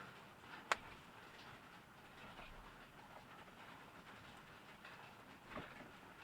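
A single sharp click a little under a second in and a softer knock near the end, over a faint steady hiss.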